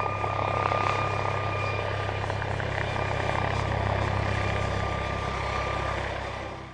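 Helicopter running steadily: a low, fast-pulsing rotor throb under a constant high turbine whine, fading out near the end.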